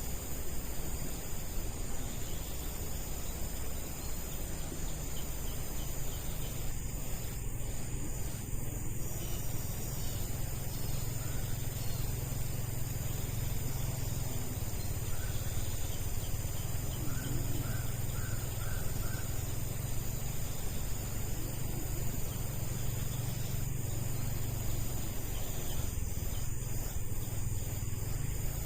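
Tropical insects holding a steady, high-pitched chorus over a low, steady rumble. About two-thirds of the way through comes a quick run of four short chirps, likely a bird.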